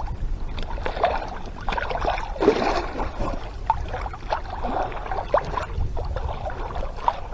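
Water sloshing and splashing against a sailing yacht's hull as it moves, in irregular small splashes over a low steady rumble.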